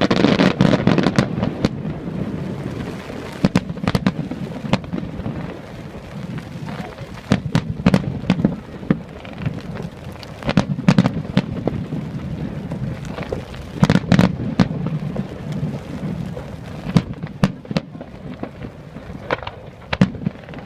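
Fireworks display: a rapid run of sharp bangs and crackles over low rumbling booms from the shell bursts, swelling into heavier booms several times.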